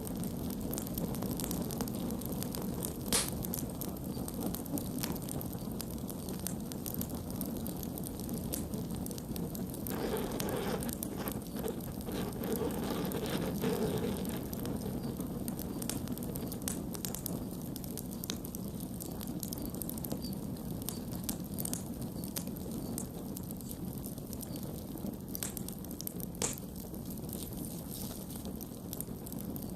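Wood campfire burning, with a steady low rush of flame and scattered crackles and pops. Two sharper pops stand out, about 3 seconds in and near the end, and the crackling thickens for a few seconds about ten seconds in.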